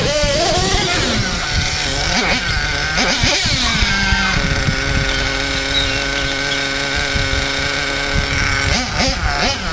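Small nitro glow engine of a 1/8-scale Earthquake 3.5 RC monster truck, revving up and down, then holding a steady high pitch for about four seconds before revving again near the end.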